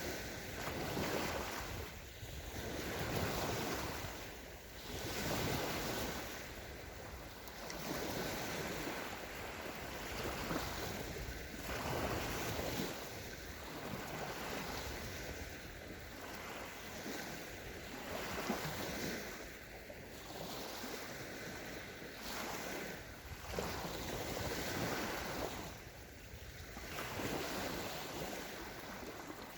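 Small sea waves breaking and washing onto a sandy shore, the wash swelling and ebbing every two to three seconds.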